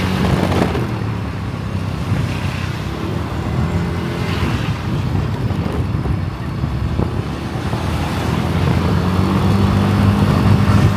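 Small motorbike (moped) engine running steadily while riding, with wind and road noise; the engine note fills out again near the end.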